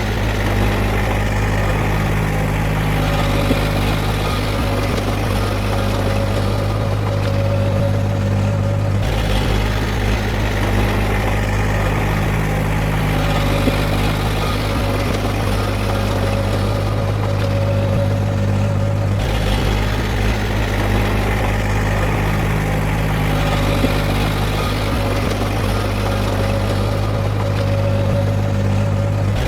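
Diesel engine of heavy earthmoving machinery running steadily with a strong low hum. The sound changes abruptly twice, about a third and two thirds of the way through.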